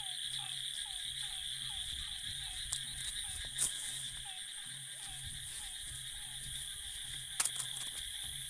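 Frogs calling, short falling notes repeated about three times a second, over a steady high insect drone. A few sharp clicks break in, the loudest about three and a half seconds in.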